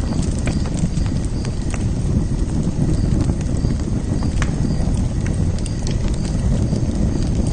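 Wood fire burning in a fire pit: a steady low rumble with irregular sharp crackles and pops from the burning wood.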